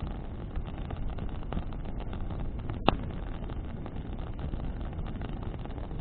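Bonfire of branches burning in the wind: a steady low rush of flame and wind on the microphone, with scattered crackles and one sharp, loud pop about three seconds in.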